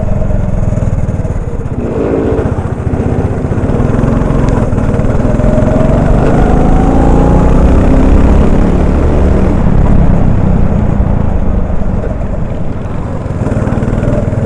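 Honda 390 cc single-cylinder four-stroke kart engine heard from the driver's helmet, easing off briefly near the start and then climbing in pitch as it accelerates, over a heavy low rumble.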